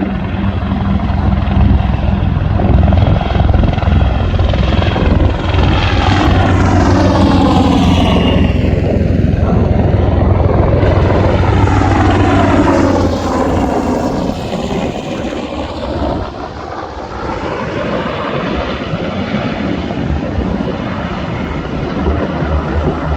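Low-flying UH-60 Black Hawk helicopter passing over, its rotor thump and turbine whine loud, with a sweeping, phasing swish through the mid and high pitches as it goes by. It is loudest in the first half and eases slightly after about 13 seconds.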